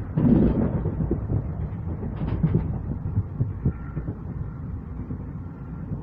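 A train running, heard from inside the moving coach: a steady low rumble with irregular knocks from the wheels over the track. It swells loudest just after the start.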